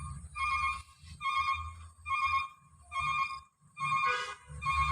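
Truck's reverse warning beeper sounding a repeating pitched beep, a little more than once a second, over the low rumble of the truck's engine: the truck is backing up.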